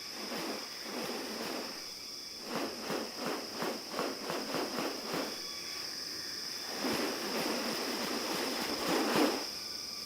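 Rainforest ambience: a steady high insect drone, with a quick series of rough pulses, about four a second, a few seconds in, and a longer noisy swell near the end.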